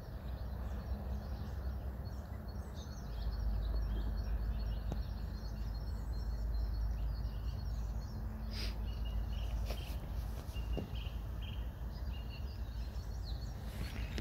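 Small birds chirping here and there over a steady low rumble of outdoor background noise, the chirps growing busier in the second half.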